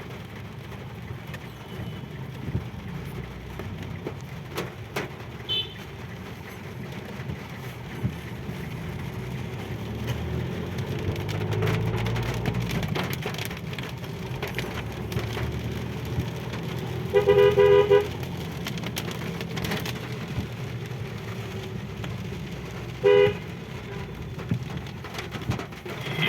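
Car horn honking in traffic: one long honk about 17 seconds in and a short toot about 6 seconds later, over the steady low rumble of engines and road noise.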